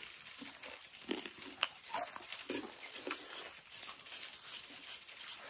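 Close-up chewing of crunchy, crisp food: a run of irregular, sharp crunches and crackles.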